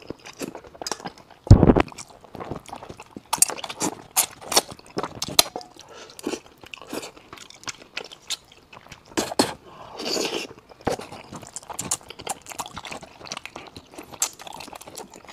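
Close-miked mouth sounds of a man eating braised fish: wet chewing and smacking with many small clicks, and one loud thump about a second and a half in.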